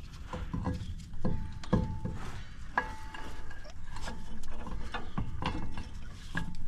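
Hand tools and metal parts being handled, a series of clanks and clinks, a few of them leaving a short metallic ring.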